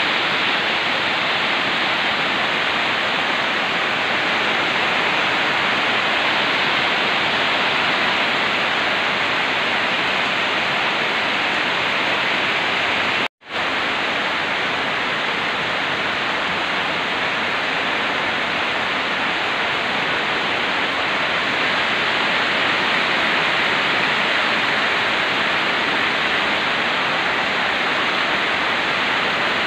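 Rain falling steadily, an even continuous hiss. It cuts out for an instant about halfway through, then carries on unchanged.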